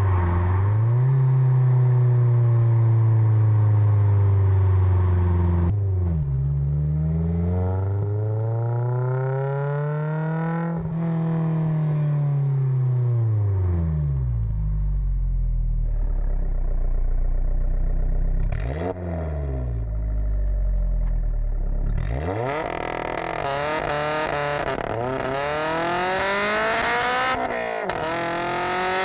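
Supercharged Honda K20Z4 inline-four engine in a Mazda RX-8, revving up and down repeatedly with several sudden drops in revs, and a low, steady stretch in the middle. The revs rise and fall faster again near the end, with more hiss and rasp.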